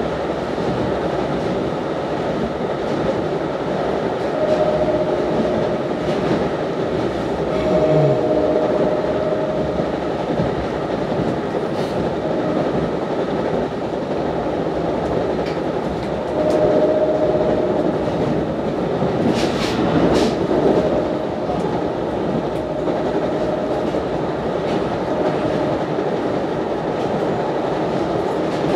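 Steady running noise of a moving NJ Transit commuter train heard from inside the coach: wheels rumbling on the rails. A few faint steady tones come and go over it.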